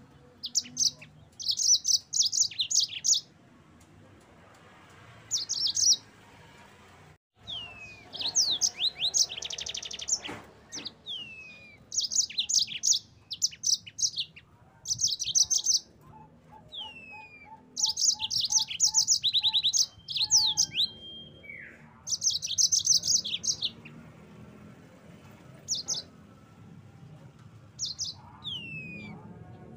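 Yellow-fronted canary (Mozambique finch) singing: repeated bursts of fast, high trills a second or two long with short gaps, mixed with single downward-sliding whistles.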